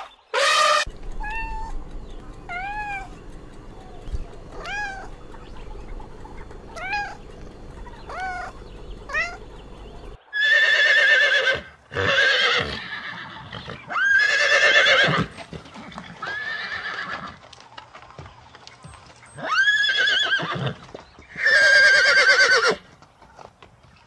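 A run of short calls, each under half a second and rising then falling in pitch, over a low hum; then, about ten seconds in, horses neighing: six loud whinnies of about a second each, their pitch shaking.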